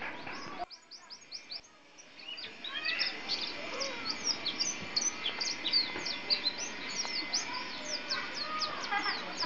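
Pleci (white-eye) songbird singing a fast, dense string of short, high, downward-sliding chirps. The song thins to a few notes with a brief lull about a second in, then picks up again and runs on unbroken.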